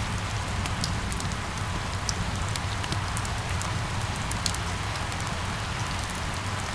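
Steady rain falling, with many individual drops ticking sharply over the hiss of the downpour and a low steady rumble underneath.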